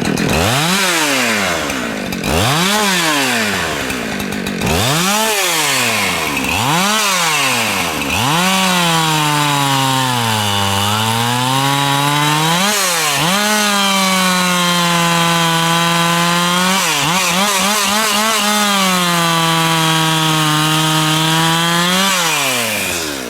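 Two-stroke chainsaw blipped up and down several times, then held at full throttle through a long cut in a log, the engine pitch sagging under load partway in and dipping briefly again later, before it is released back down at the end. The chain has .025-inch depth gauges, which the cutter feels hold the saw back.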